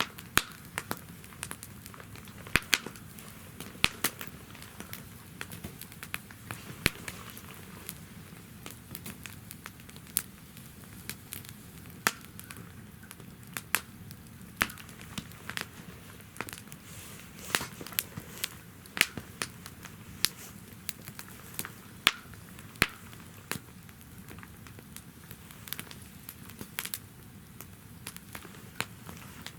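Firewood burning in a portable fire stand, crackling with frequent irregular sharp pops over a steady low background of burning.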